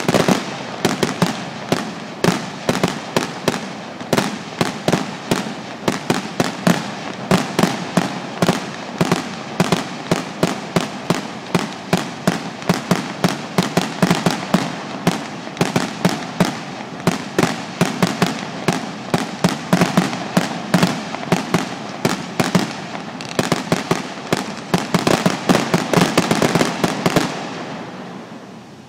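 Fireworks firing a rapid, continuous barrage of sharp bangs and crackles, several a second, stopping near the end.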